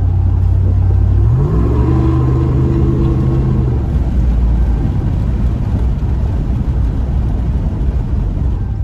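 Muffler-deleted HEMI V8 of a Ram 2500 pickup running under way, its exhaust drone climbing in pitch about a second and a half in as the revs rise, holding there for a couple of seconds, then easing back into steady cruising with road noise.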